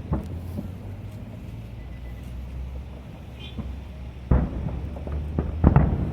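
Aerial fireworks bursting over a low, steady rumble: one sharp bang at the start, then a quick cluster of several bangs about four to six seconds in.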